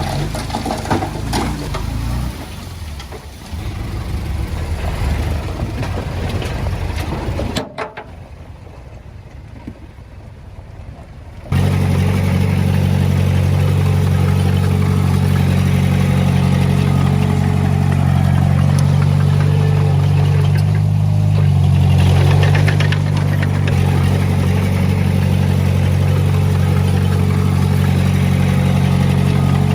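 Diesel engine of heavy earthmoving equipment running with some clatter. About eight seconds in the sound cuts abruptly to a quieter stretch, then a few seconds later a loud, steady low engine drone starts suddenly and runs on, swelling slightly about two-thirds of the way through.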